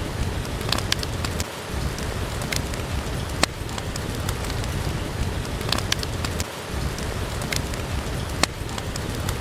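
Steady rain with a low rumble, and a wood fire crackling in a fireplace with sharp, irregular pops a few times a second.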